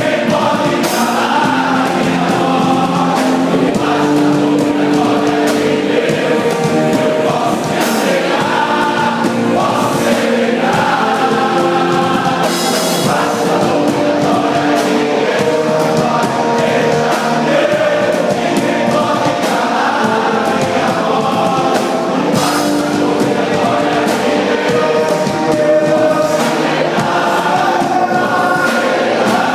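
A choir singing a gospel song, held notes changing pitch continuously, with music underneath.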